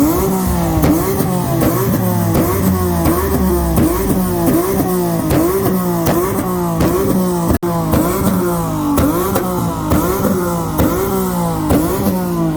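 Car engine revved hard again and again in quick blips, about two a second, its pitch rising and falling with each blip, with sharp exhaust pops and crackles over it. The sound drops out for an instant about two-thirds of the way through.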